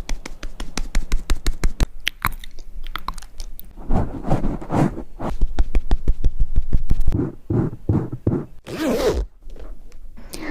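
Close-miked ASMR makeup trigger sounds: a fast run of sharp clicks and taps, then rougher scratchy noises in quick bursts, the strongest near the end.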